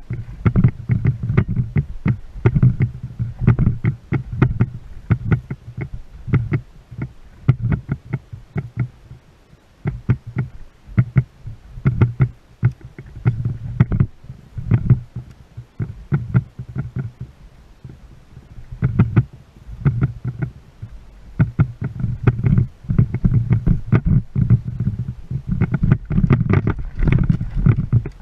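Water slapping and knocking against the hull of a small boat: a rapid, irregular string of knocks over a low rumble that swells and fades.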